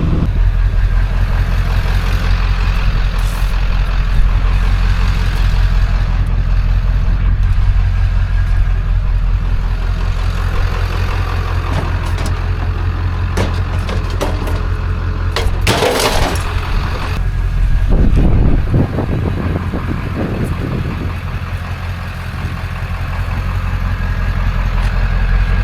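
A vehicle engine runs steadily as a deep, constant hum. A brief loud noise breaks over it about two-thirds of the way through.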